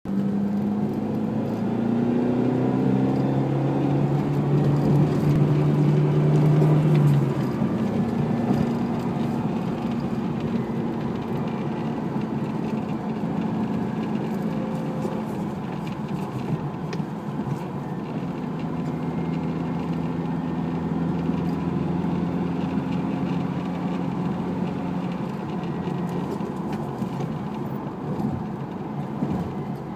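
A mechanical whir: several tones rise together in pitch over the first seven seconds, drop away, then hold steadier over a continuous rumble.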